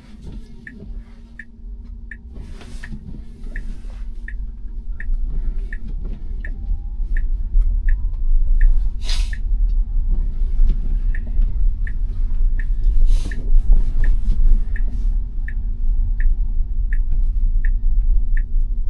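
Cabin sound of a Tesla Model Y driving on snow-covered, unplowed road: a low tyre and road rumble that grows louder as the car picks up speed, over a steady hum. A soft tick repeats about twice a second, and a few brief swishes pass over it.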